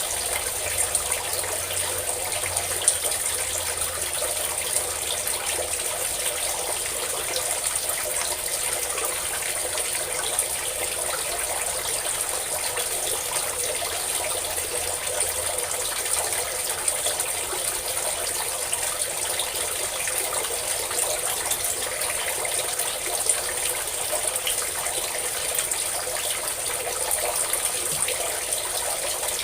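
Water pouring in a steady stream from a spout and splashing below, continuous and even.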